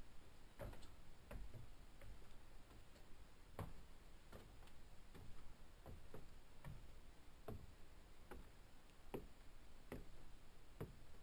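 Footsteps at a steady walking pace, just over one step a second, each a short sharp knock.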